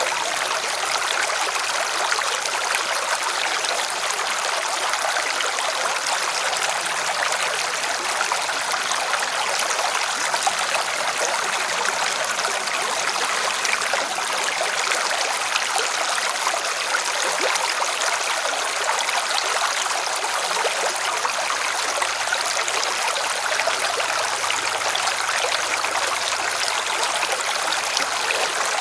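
River water splashing and rushing over rocks, a steady, even hiss with no breaks.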